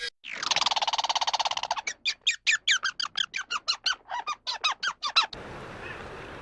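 An animal calling: one long harsh call, then a quick string of short chattering calls, about five a second, that cut off suddenly about five seconds in.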